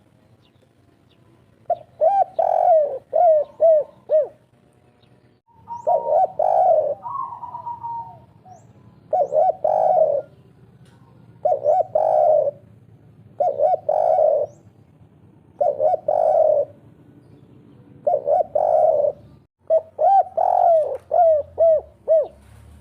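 Spotted dove (derkuku) of the 'kuk 3' type cooing repeatedly, each phrase a quick run of short hooked coos, about every two seconds. The bird is in full breeding condition.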